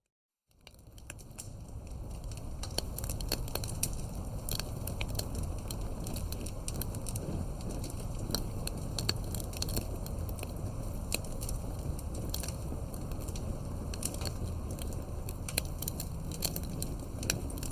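Wood campfire burning, a steady low rumble of flame with frequent irregular pops and snaps from the burning wood. It begins from a moment of silence and fades in over the first couple of seconds.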